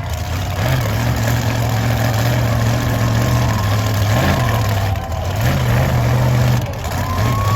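Monster truck engine running at a steady low idle, its pitch rising briefly a few times with short blips of the throttle.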